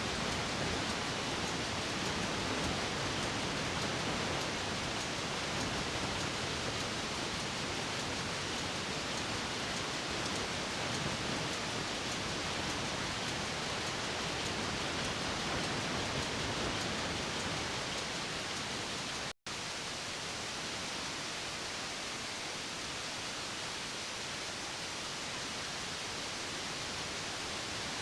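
Steady, dense machinery noise of a ship's engine room, with the MAN B&W 11,000 kW marine diesel main engine running, even and without a distinct beat. The sound cuts out for an instant about two-thirds of the way through.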